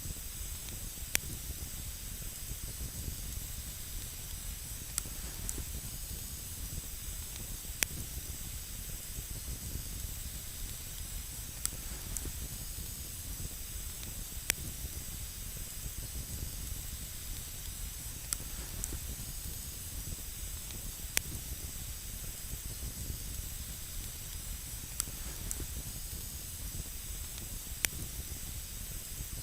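Wood campfire burning with a steady hiss and scattered sharp crackles and pops, one every couple of seconds.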